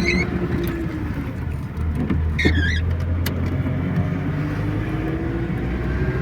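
GAZelle truck engine running as it moves off, heard from inside the cab, its pitch rising slowly in the later part. A few clicks and a brief high squeak about two and a half seconds in.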